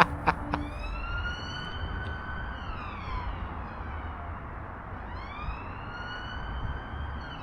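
Police car siren wailing as it passes over the bridge, its pitch rising slowly, holding, then falling, twice, over a low traffic rumble. A couple of short rattling clicks sound at the very start.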